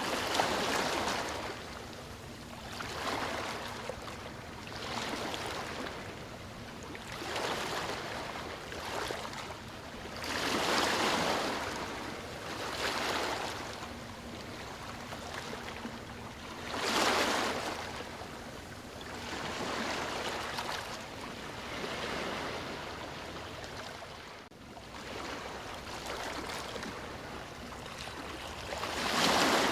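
Sea waves washing onto the shore, the hiss of surf swelling and falling every couple of seconds, with bigger breakers about a third of the way in, a little past the middle, and at the end.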